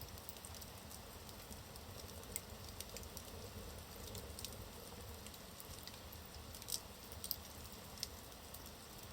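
Wood fire burning in a fireplace: a faint steady hiss with scattered crackles and pops, a few sharper pops about two and a half, six and a half, seven and eight seconds in.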